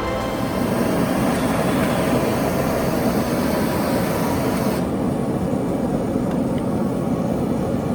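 Forge running with a steady roar while a steel kukri blade heats for hardening; the upper hiss drops away about five seconds in.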